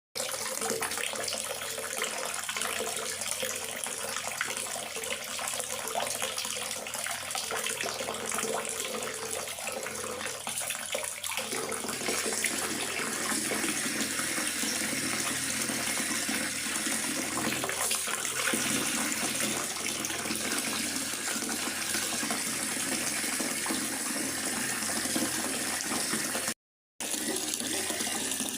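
Steady rain falling in a forest, an even hiss of many drops, which cuts out completely for about half a second near the end.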